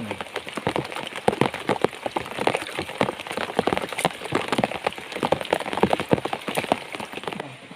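Rain falling, with many sharp, irregular drop hits close to the microphone; it stops suddenly near the end.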